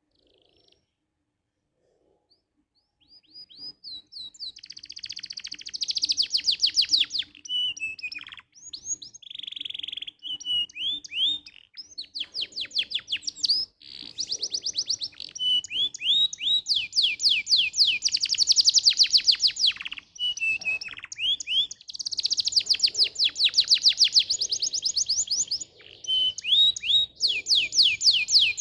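Domestic canary singing: long phrases of fast trills and rolls, the notes repeated many times a second, with short breaks between phrases. The song begins about three seconds in, after near silence, and a faint steady hum runs beneath it.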